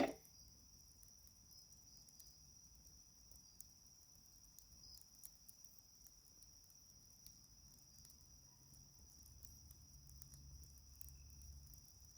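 Night insects singing in a steady high-pitched chorus, with faint scattered crackles from a wood fire. A single sharp knock sounds right at the start.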